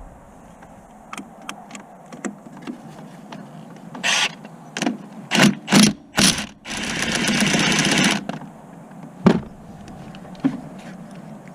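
Metal tools clinking and knocking during work on a car, with a burst of loud knocks around the middle and then a power tool run for about a second and a half, followed by one more sharp knock.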